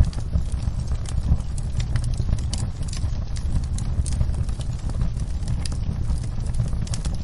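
Wood fire in a fireplace crackling: irregular sharp pops and snaps scattered over a steady low rumble of the flames.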